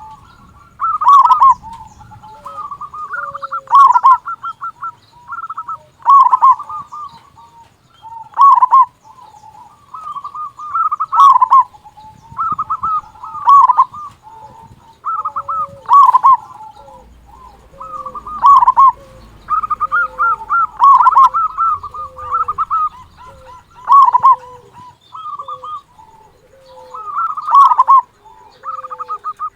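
Zebra dove (perkutut) cooing loudly over and over, its phrases repeating roughly every two to three seconds.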